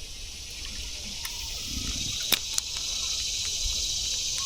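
Insects chirring in a steady high-pitched chorus that grows louder over the first few seconds, with one sharp tap a little past halfway.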